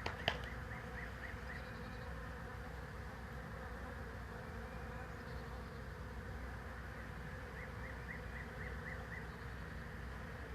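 Honey bee swarm buzzing steadily, the hum of many bees clustered together. Two sharp clicks right at the start, and two quick runs of short, high chirps, one about a second in and another near the end.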